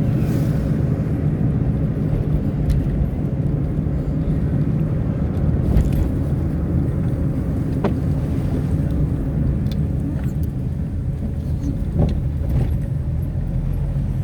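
A road vehicle driving along, its engine and tyre noise a steady low rumble, with a few light knocks along the way.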